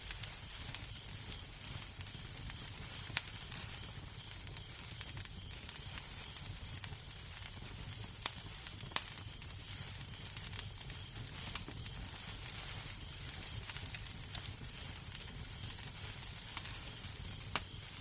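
Fireplace fire crackling: a steady soft hiss over a low rumble, with scattered sharp pops and snaps, a few standing out louder.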